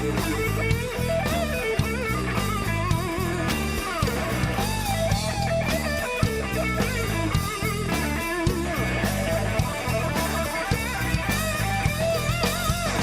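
Rock band playing live, an instrumental break between verses: an electric guitar lead with bent, wavering notes over drum kit and bass guitar.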